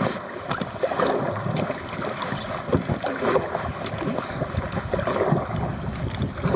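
Paddling an inflatable kayak: paddle blades dipping and water splashing and lapping against the hull, with many irregular small splashes and knocks over a steady rush of water and some wind noise.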